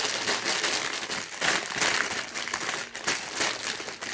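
Plastic bags of LEGO pieces crinkling and rustling as they are handled.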